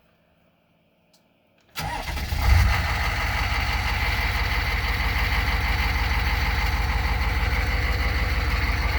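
1998 Chevrolet 2500's 6.5-litre turbo-diesel V8 starting about two seconds in, flaring up briefly, then settling into a steady idle.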